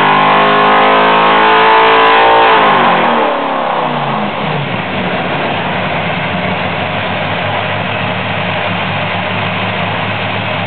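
565 cubic-inch big-block Chevrolet V8 on an engine dyno, running at high rpm at the end of a pull, then the throttle closes and the revs fall away over about two seconds before it settles to idle.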